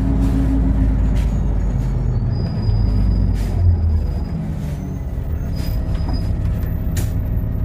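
Inside a LiAZ 5292 low-floor city bus: steady engine and road noise while under way, with faint thin squeals near the middle. The engine eases off after about four seconds as the bus slows toward a stop.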